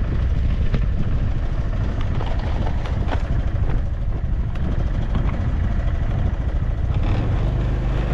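Motorbike engine running while riding, with heavy low wind rumble on the microphone; a steady engine hum comes through about seven seconds in.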